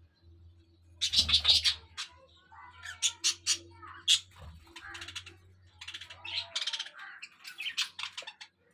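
Budgerigars chirping and chattering in quick, squeaky bursts, starting about a second in.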